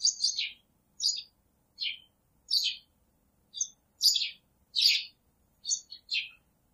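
A bird chirping over and over: about ten short, high calls, each sliding down in pitch, coming roughly every half second to second.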